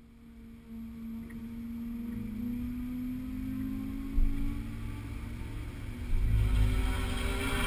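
A car's engine on a race circuit, its note rising in pitch and growing steadily louder as it comes closer. A sudden thump about four seconds in, and a low rumble that swells near the end.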